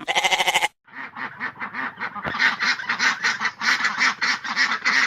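Ducks quacking in a rapid, continuous series of short calls, several a second, after one loud, brief call at the very start.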